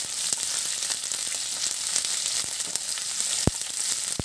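Chopped onion, capsicum and green chilli sizzling in hot oil in a frying pan, stirred with a wooden spatula, with small scrapes and one sharp tap about three and a half seconds in.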